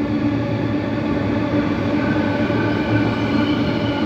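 Empty cattle wagons of a freight train rolling steadily past, their wheels running on the rails.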